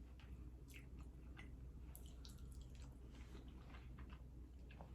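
Faint close-up chewing of barbecued pork rib meat, with scattered small wet mouth clicks.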